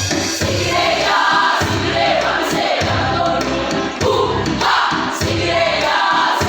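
A choir singing, several voices together in sustained phrases.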